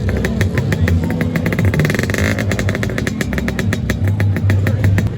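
Lambretta scooter's two-stroke engine running close by, its exhaust beating in a fast, even pulse.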